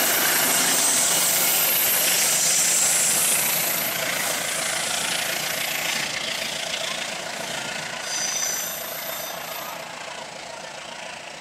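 Local train's passenger coaches running away over the rails, the wheel and rail noise loud at first and fading steadily as the train recedes. A brief high squeal comes about eight seconds in.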